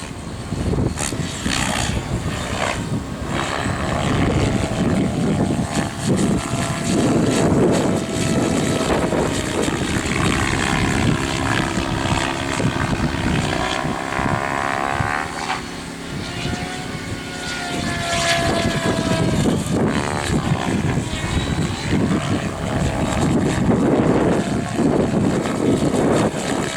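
Align 700E electric RC helicopter flying 3D aerobatics: its motor and rotor whine slides up and down in pitch as it manoeuvres. Strong wind buffets the microphone underneath.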